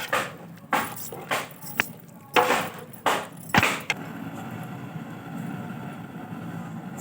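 Spoon stirring in a cooking pot, short scraping strokes about twice a second, mixing water into the sambar. The strokes stop about four seconds in, leaving a steady hiss.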